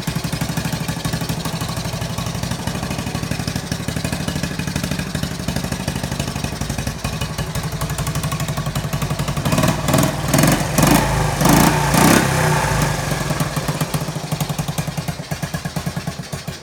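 1973 Honda US90 trike's small single-cylinder four-stroke engine running on its first start after assembly. It is revved in several short bursts about ten seconds in, then fades and dies on its own near the end.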